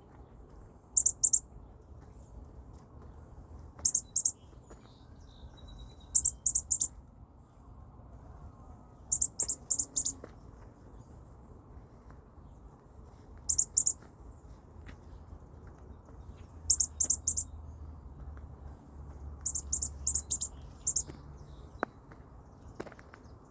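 Baby bird chirping: short, very high-pitched chirps in quick clusters of two to four, repeated every two to four seconds.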